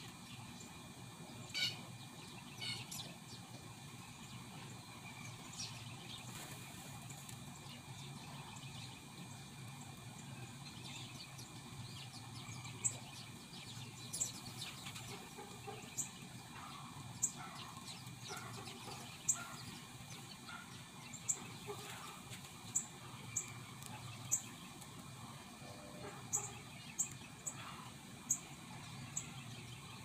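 Birds calling over a steady low background hum. A few calls near the start, then short high-pitched chirps repeated about once a second through the second half.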